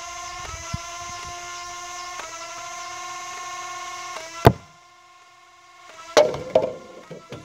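Flywheel motors of a modified BoomCo Spinsanity dart blaster, run on 14.8 V, spinning with a steady high whine that dips and recovers a few times. About four and a half seconds in there is one loud sharp crack and the whine stops. A short clatter of knocks and rattles comes near the end.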